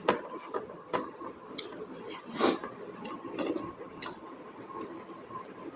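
Close-up eating sounds: wet chewing and mouth clicks with irregular small smacks, and one louder wet noise about halfway through.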